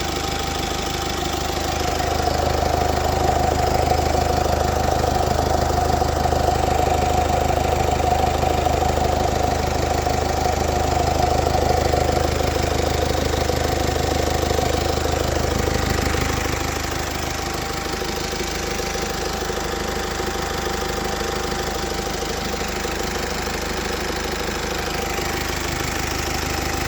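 Mercedes-Benz OM654 2.0-litre four-cylinder diesel running steadily, probably at idle. The owner is unsure whether the noise is normal. It drops a little in loudness about two-thirds of the way through and then runs on steadily.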